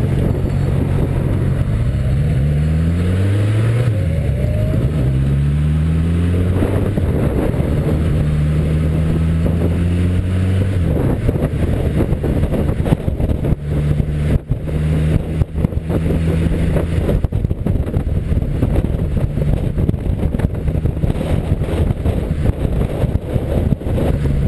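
Motorcycle engine under way with wind rush: the revs climb a few seconds in, drop at a gear change, climb again, then settle into steady cruising.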